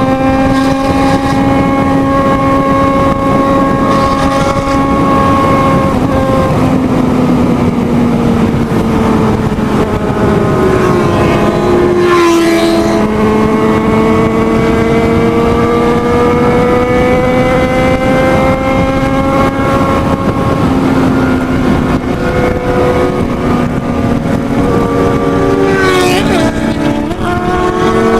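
Motorcycle engine at high revs while riding fast. The pitch sags for a few seconds, then climbs steadily, and drops in steps near the end as gears change.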